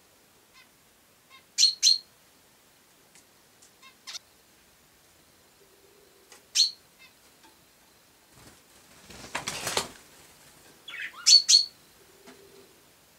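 Sparrows chirping: short, sharp chirps, some in quick pairs, loudest about two seconds in, near seven seconds and near eleven seconds, with fainter chirps between. A brief rustling burst about nine seconds in.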